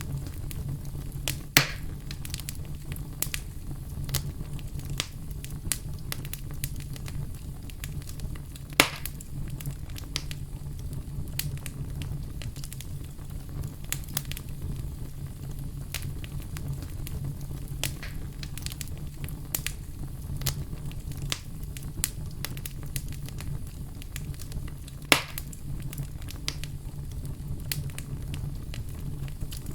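Wood fire burning with a steady low rumble and a constant scatter of small crackles, with three louder pops: about 2 seconds in, about 9 seconds in, and near the end.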